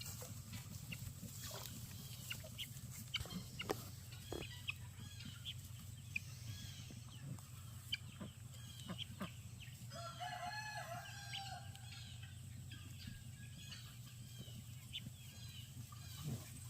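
A rooster crows once, about ten seconds in, among scattered short clucks and chirps from chickens, over a steady low hum.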